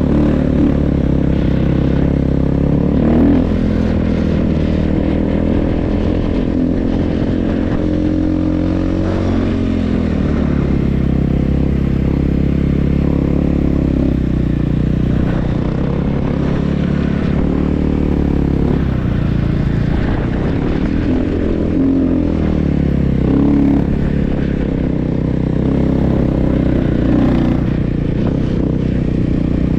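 Snow bike engine (a dirt bike fitted with a snow track) running under load, its revs dropping and climbing again several times as it is ridden.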